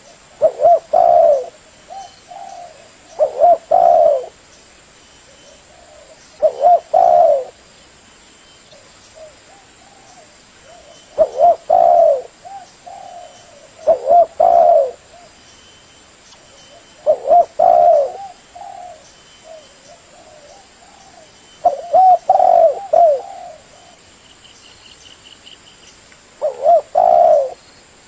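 Spotted dove (tekukur) cooing: a low, repeated coo phrase about every three seconds, with softer coos in between.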